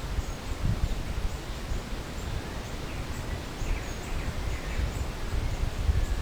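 Forest ambience: a fluctuating low rumble of wind on the microphone with leaves rustling, and a few faint bird chirps about halfway through.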